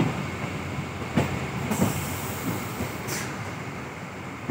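MEMU electric local train running, heard from inside the coach: a steady rumble with wheels clacking over rail joints, the sharpest knocks a little over a second in and just before two seconds. A high hiss joins for about a second and a half in the middle.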